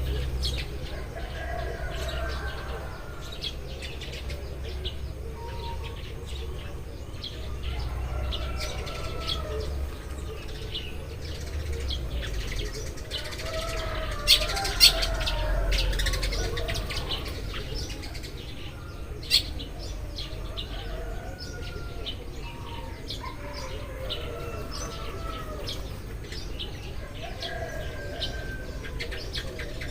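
A flock of Eurasian tree sparrows chirping, many short overlapping chirps with no pause, over a low rumble. A few sharp clicks stand out about halfway through and again a few seconds later.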